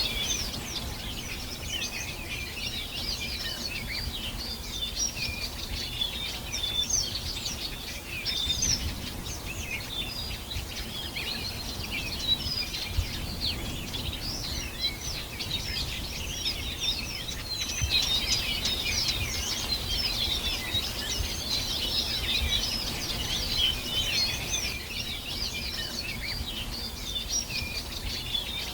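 Many small birds singing and chirping at once, a continuous dense chorus of short high notes and trills, over a low background rumble.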